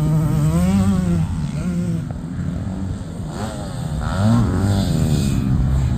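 85cc two-stroke motocross dirt bike engine revving up and down repeatedly, its pitch rising and falling, quieter in the middle and louder again after about four seconds.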